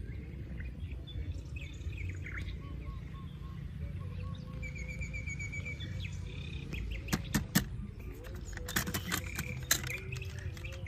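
Bird chirping, including a quick trill of short repeated notes about midway, over a low steady rumble, with a few sharp clicks in the second half.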